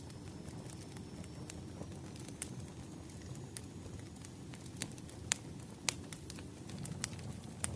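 Wood fire crackling: a steady low rumble of burning logs with scattered sharp pops, two louder pops a little past halfway.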